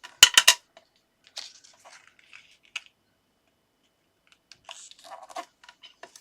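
Cardstock strips being handled and folded: a quick cluster of three or four sharp hard taps near the start, the loudest part, then intermittent paper rustling and scraping as the paper is creased.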